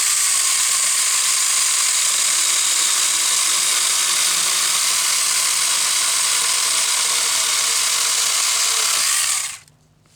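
Saker battery-powered mini chainsaw, with a small chain of about 4 inches, running steadily as it saws through a small piece of firewood, then stopping about nine and a half seconds in.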